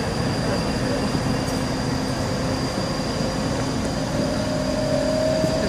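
Passenger coaches of a diesel-locomotive-hauled train rolling past at low speed as it departs: a steady rumble of wheels on the rails with a humming tone. Near the end a higher tone rises slowly as the train gathers speed.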